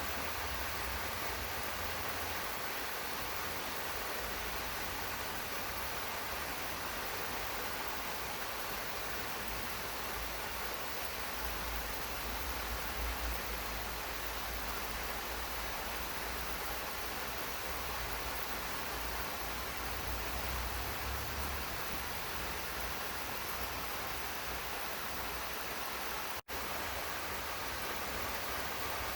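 Steady rain falling in a garden, an even hiss of drops with a low rumble underneath; the sound drops out for an instant near the end.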